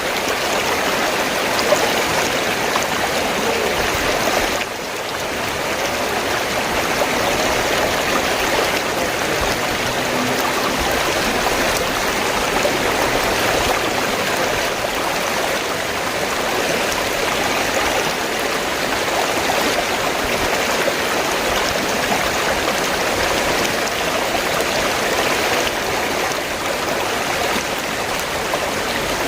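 River water flowing steadily, a continuous rushing of running water with a brief dip in level about four and a half seconds in.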